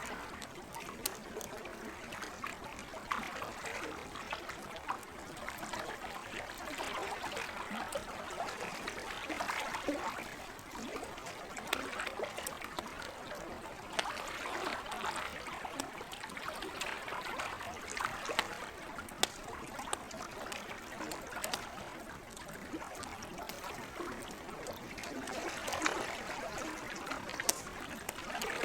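Lake water lapping and trickling in gentle swells, with a wood campfire crackling over it in scattered sharp pops.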